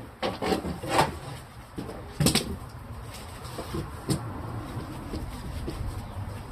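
A few knocks and clatters from objects being handled during refrigerator cleaning, the loudest about two seconds in and another near four seconds, over a low steady hum.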